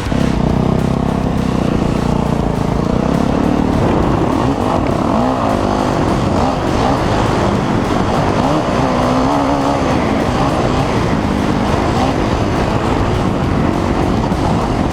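Dirt bike engine revving up and easing off again and again while riding off-road, its pitch rising and falling every second or two.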